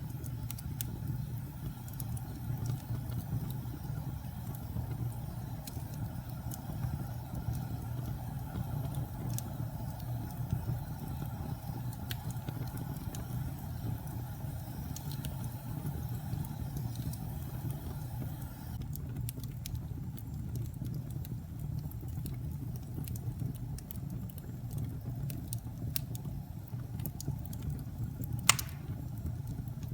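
Wood fire burning in a fireplace: a steady low rumble of flames with scattered crackles that grow busier about two-thirds of the way in, and one loud pop near the end.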